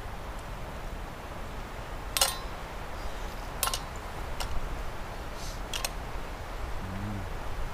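Cutlery clicking against plates a few times while eating, over steady low background noise, with a brief low hum from a voice near the end.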